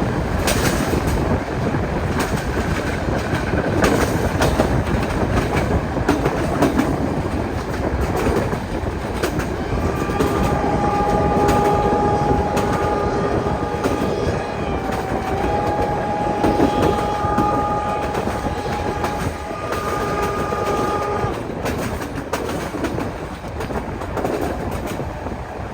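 Steam train running with a steady rail clatter of wheels over the joints. About ten seconds in, the locomotive's steam whistle sounds one long chord-like blast of about eleven seconds, wavering briefly in pitch partway through, before the clatter carries on alone.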